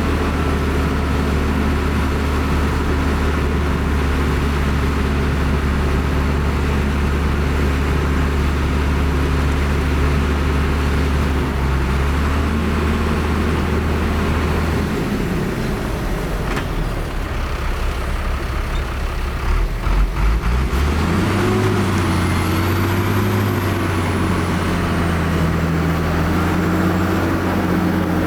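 Heavy earthmoving diesel engine running under load. Its steady drone eases off about halfway through, with a few knocks, then revs up again and holds steady.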